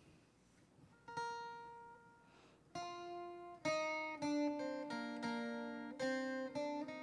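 Acoustic guitar playing a song intro: a chord struck and left ringing about a second in, another just before three seconds, then steady strummed chords about twice a second.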